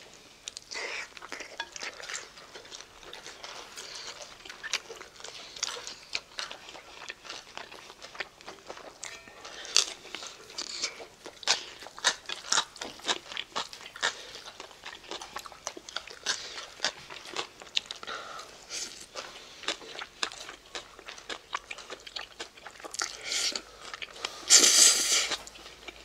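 A person eating close to the microphone: chewing with many small wet mouth clicks, and a louder noisy sound about a second long near the end.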